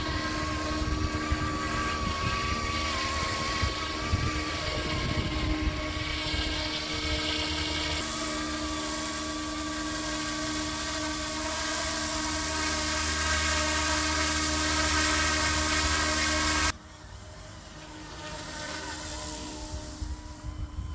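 Eachine E200 Pro RC helicopter's electric motors and rotors whining steadily in flight, the pitch wavering slightly with throttle. Near the end the sound drops suddenly to a quieter, wavering whine.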